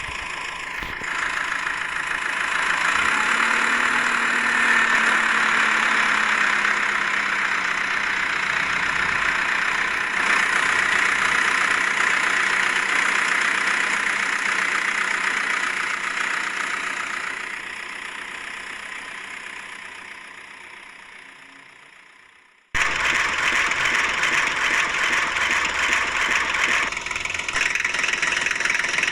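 Toy tractor engine sound, a steady running, idling engine noise. It fades away over several seconds. After a brief cut, another engine sound starts abruptly.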